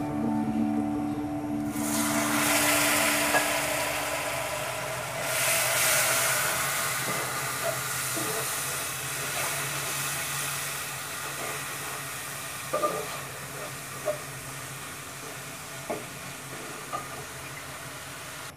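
Onion and spice paste sizzling in hot oil in an aluminium pan as it is stirred with a plastic spatula. The hiss rises sharply about two seconds in and again about five seconds in, then slowly dies down, with a few light knocks of the spatula against the pan near the end.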